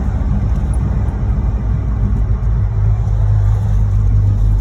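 1986 Chevrolet Monte Carlo SS's V8 engine running while the car is driven, heard from inside the car as a steady low rumble. The engine has a rod knock in its bottom end.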